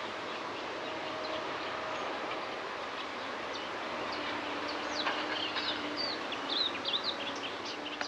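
Birds chirping over a steady background noise, with a quick run of short rising and falling calls from about five seconds in.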